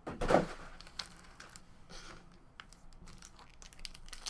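2017 Topps Series 1 baseball card pack wrappers crinkling and tearing as packs are opened. A louder rustle comes just after the start, followed by lighter clicks and rustling of cards being handled.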